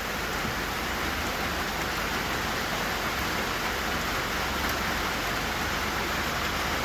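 Hard rain falling steadily on a tin roof, an even hiss with no separate drop strikes standing out.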